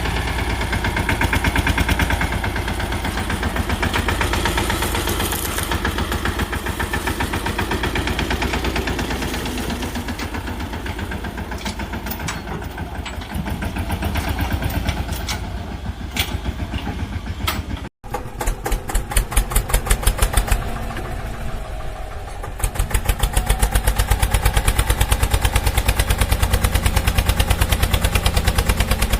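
Diesel engines of a backhoe loader and tractor running with a rapid, uneven clatter. After a brief break about 18 seconds in, a louder, very even diesel clatter settles in from about 22 seconds, as at a steady idle.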